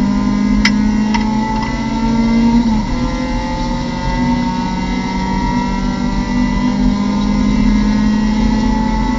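Mazda MX-5 Cup race car's four-cylinder engine heard from inside the cockpit, pulling under acceleration. There is a gear change about three seconds in, then the pitch climbs slowly. Two sharp clicks come in the first second or so.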